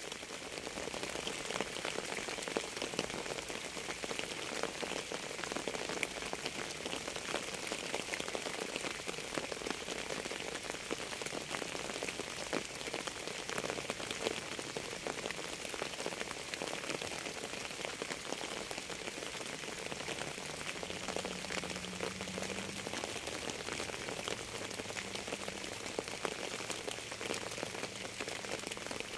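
Steady rain falling on a surface, with many separate drops pattering throughout.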